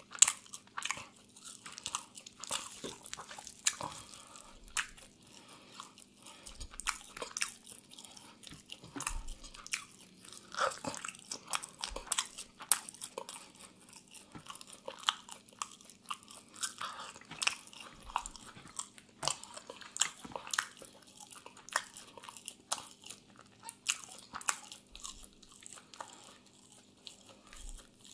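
Close-miked chewing and biting into crispy grilled chicken: a steady run of irregular sharp crunches and crackles, several a second.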